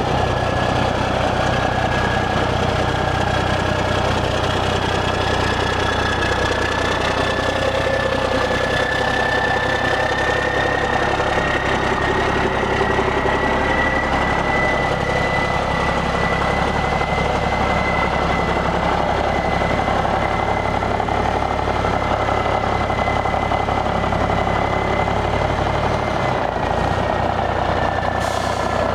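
Diesel engine of a 1991 International 9600 truck tractor idling steadily, with a thin high whine that slowly climbs in pitch and eases back near the end.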